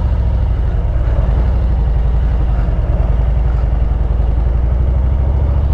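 Harley-Davidson Road Glide's V-twin engine running at low, steady revs, a deep rumble with a quick, even beat.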